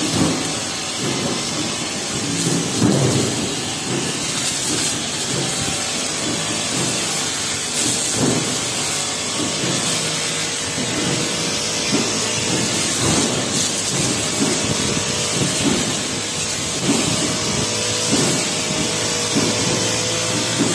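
Honda four-stroke brush cutter running steadily at working speed, its metal grass-cutting blade slashing through tall grass with a run of short, sharp strikes.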